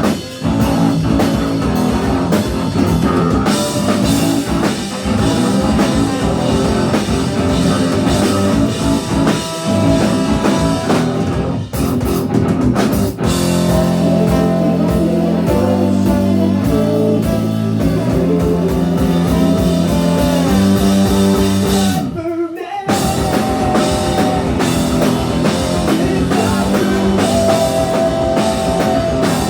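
Live ska punk band playing: loud electric guitar and drum kit, with two short band stops about 12 and 22 seconds in.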